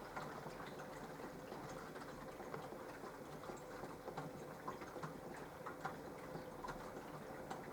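Minicolo mini washing machine running a wash in its bra programme: the drum motor hums steadily while water sloshes and the drum makes light, irregular clicks and ticks as it turns the shirt.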